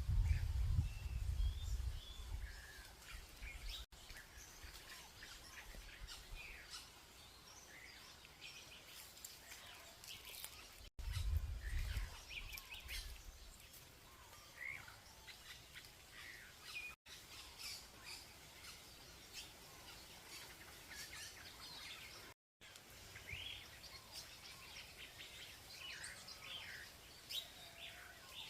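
A chorus of songbirds chirping and whistling, with many short calls overlapping throughout. A low rumble comes in twice, near the start and again about eleven seconds in.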